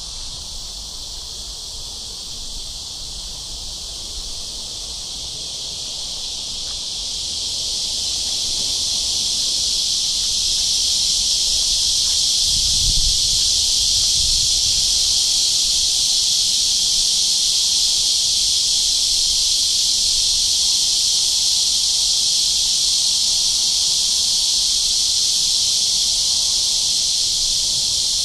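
Cicadas singing in a dense, steady chorus, a high buzzing that swells over the first ten seconds or so and then holds loud. A brief low rumble comes about halfway through.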